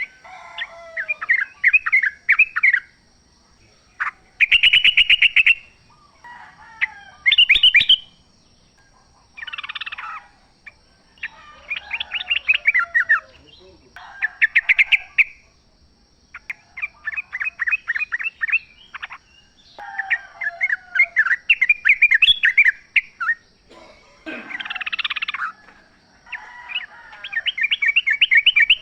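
Yellow-vented bulbuls singing: short, rapid, bubbly chattering phrases repeated one after another, with brief pauses between them. A brief fast rattle comes about four seconds in and again near eight seconds.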